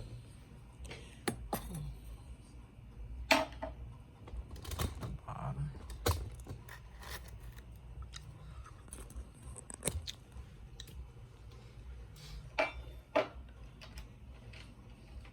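Crisp freezer frost crunching: scattered sharp crunches and clicks, a few louder ones, over a steady low hum.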